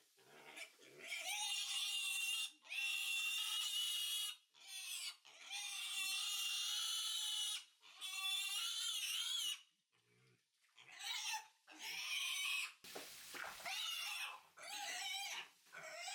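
Wild boar piglet squealing over and over: a string of long, high-pitched squeals, each a second or two long, with short breaks between them.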